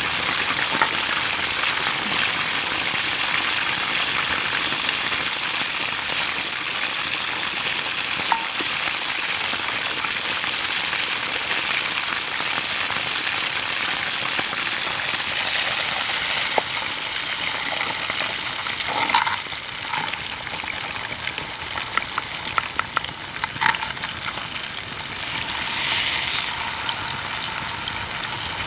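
Food sizzling and frying in a hot pan, a steady crackling hiss, with a few light clicks in the second half.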